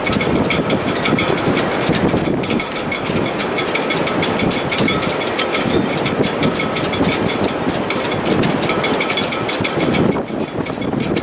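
Strong wind through a sailboat's shrouds and rigging in heavy weather: a loud, steady rush of wind with a fast, even rattle of about six ticks a second.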